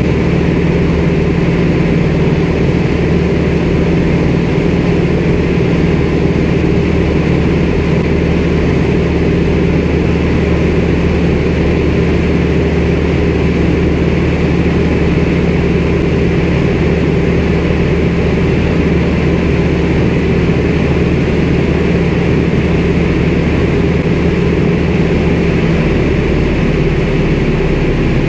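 CAC Winjeel's Pratt & Whitney R-985 nine-cylinder radial engine and propeller running steadily, loud, as heard from inside the aircraft. The engine note shifts slightly a couple of seconds before the end.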